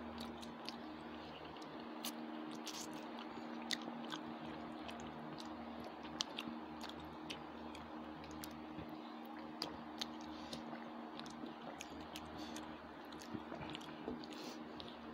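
Close-miked chewing of a person eating rice and fried fish by hand: many small wet mouth clicks over a steady low hum.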